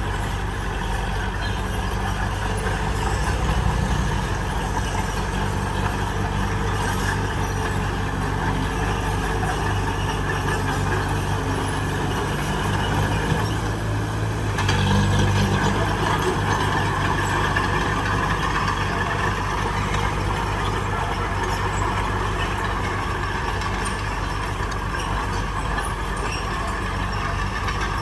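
Heavy diesel engine of earthmoving machinery running steadily under load, with a brief rise in level about halfway through.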